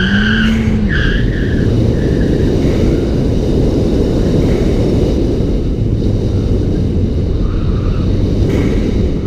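Ford Fiesta ST's turbocharged 1.6-litre four-cylinder engine revving up under heavy road and tyre noise, its pitch rising and then levelling off about a second in, with a short tyre squeal at about the same moment.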